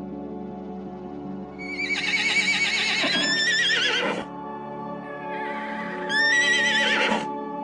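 Horse whinnying twice, each call a long trembling neigh: the first lasts about two and a half seconds, and the second comes about five and a half seconds in. Background music plays under it.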